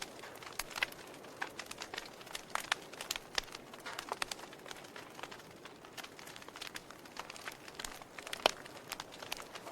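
Wood fire crackling in a fireplace: irregular pops and snaps over a soft hiss, with one sharper pop about eight and a half seconds in.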